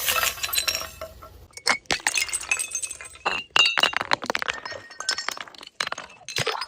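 Glass bottles breaking and broken glass clinking: a rapid, irregular string of sharp cracks and tinkles with short ringing tones.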